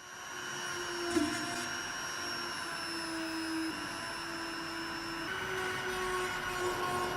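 A small electric power tool's motor running steadily with a whine and a hiss of grinding. Its pitch steps slightly a couple of times, with a short sharp knock about a second in.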